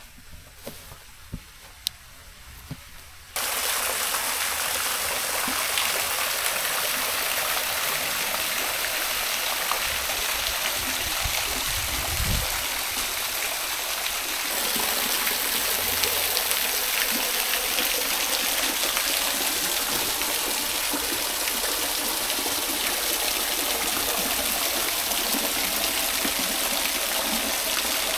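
Water of a small waterfall running steadily, a constant rushing splash. It starts abruptly about three seconds in after a quieter stretch with a few clicks, and grows louder about halfway through.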